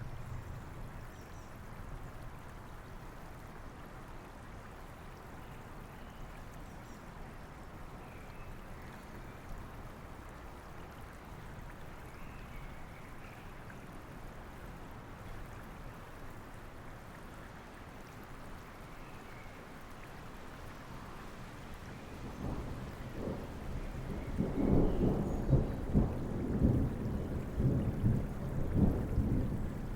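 Steady rainfall with a constant low rushing wash. About 22 seconds in, a thunder rumble builds and breaks into loud, crackling rolls that run on to the end.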